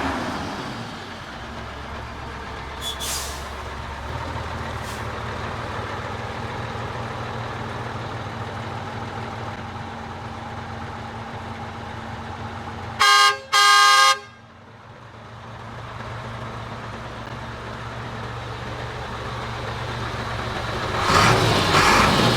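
Sinotruk HOWO dump truck's Weichai WD615 inline-six diesel running steadily, with two short loud horn blasts about thirteen seconds in. The sound grows louder and rougher near the end.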